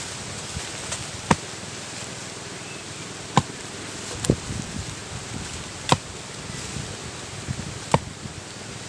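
Five sharp chopping strikes of a blade tool into bamboo roots, spaced irregularly a second or two apart.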